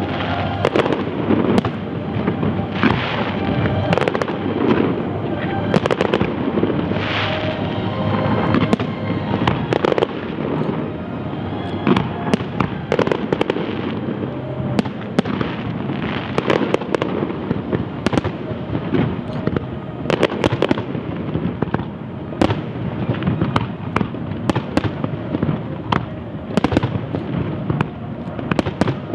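Large aerial fireworks display: shells bursting in quick succession, many sharp reports over a continuous crackle and rumble.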